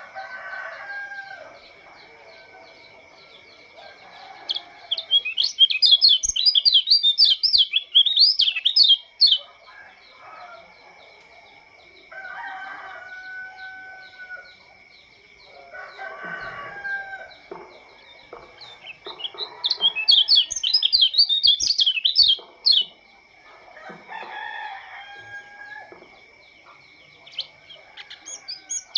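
Lombok white-eye (pleci) singing in two loud bursts of rapid, high twittering, about five seconds in and again near twenty seconds. Chickens call with shorter, lower notes in between, and a steady high whine runs underneath.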